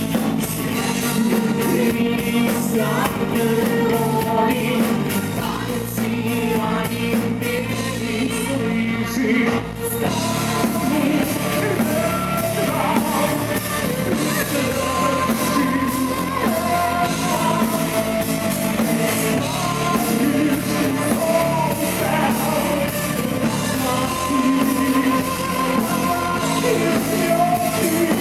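Live rock band playing with a lead vocalist singing, guitars and drums, in the reverberant sound of a club hall.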